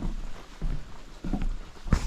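Footsteps of a hiker walking on a trail: a dull thud about every two-thirds of a second, over a steady low rumble.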